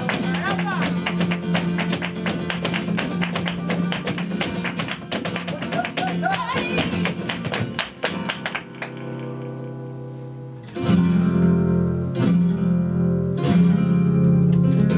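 Flamenco alegrías played live on Spanish guitar, with a dense run of rapid sharp percussive strikes over the guitar for roughly the first half. The strikes stop at about eight and a half seconds, leaving softer held guitar notes, and then loud strummed flamenco guitar chords come in at about eleven seconds.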